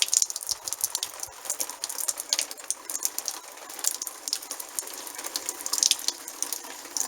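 Water sprinkled from a watering can onto fabric rain hats, a dense, irregular spatter of drops hitting the fabric.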